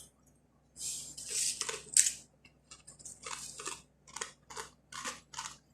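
Crunchy fried flatbread (khubz) being bitten and chewed close to the microphone: a run of short, crisp crunches, about two or three a second, starting about a second in.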